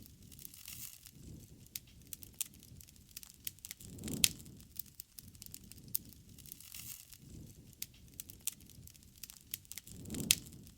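Wood campfire crackling with frequent sharp pops and snaps over a low, uneven rush of flame that swells louder about four seconds in and again near the end.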